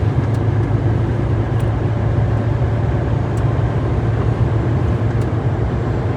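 Heavy truck cruising on the highway, heard from inside the cab: a steady low engine drone with road and wind noise, with a few faint ticks.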